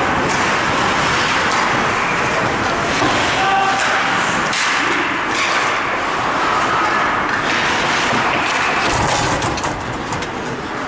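Ice hockey play on a rink: skates scraping the ice and sticks and puck knocking, over a steady din of rink noise.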